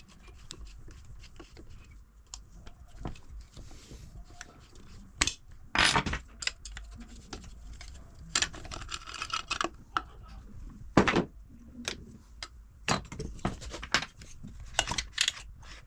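Metal tools and small engine parts clinking, tapping and knocking against each other in an irregular run while a small two-stroke brushcutter engine is taken apart by hand, with one louder knock about eleven seconds in.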